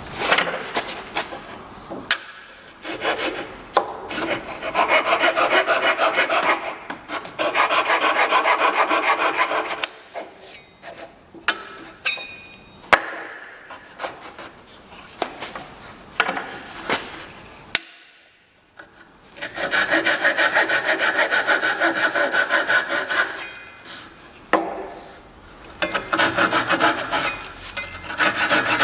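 White oak worked by hand with a cutting or abrading tool, in several long scraping strokes of about two to four seconds each. Between them come short pauses with a few sharp knocks or clicks.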